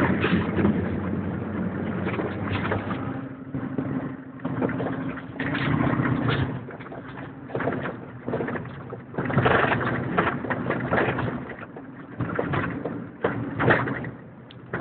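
1996 Dodge 2500 pickup driving over rough desert ground: a steady engine drone under irregular knocks and rattles, the loudness rising and falling with the bumps.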